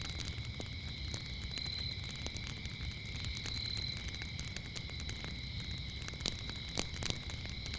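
Wood fire crackling with scattered sharp pops, a few louder ones near the end, over a low rumble. Crickets chirp steadily in a continuous high drone behind it.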